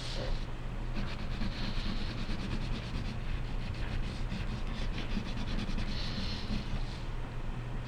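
Wax crayon rubbing on paper in spells of quick back-and-forth colouring strokes, over a steady low hum.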